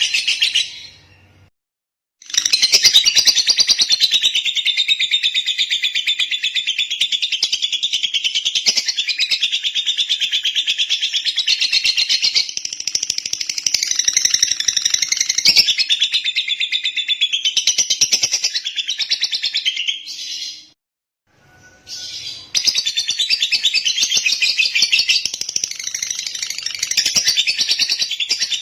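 Lovebird singing in a long, unbroken stream of rapid, high chirps. It stops twice, for about a second each time: once shortly after the start and once about two-thirds of the way through.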